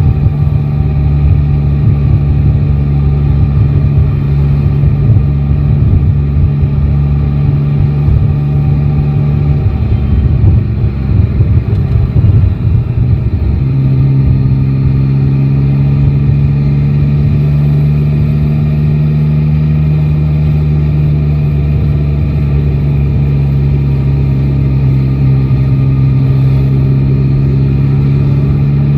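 Yamaha Tracer 9 GT's 890 cc inline-three engine running steadily under way. About ten seconds in the note breaks up into an uneven, shifting sound for a few seconds, then settles back to a steady hum at a slightly different pitch.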